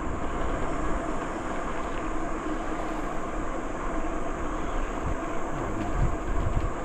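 Steady rolling noise of a bicycle ride: tyres on the trail and wind buffeting the microphone, the wind gusting harder about five to six and a half seconds in.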